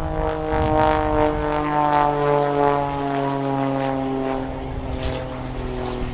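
Jet Pitts, a jet-boosted Pitts Special aerobatic biplane, flying past with its propeller engine droning steadily and slowly dropping in pitch as it goes by.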